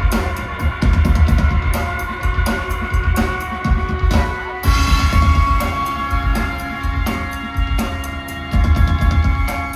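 Live rock band playing loud: a busy drum kit with heavy bass drum hits under held, steady instrument tones. The music changes abruptly about halfway through, with new held tones coming in.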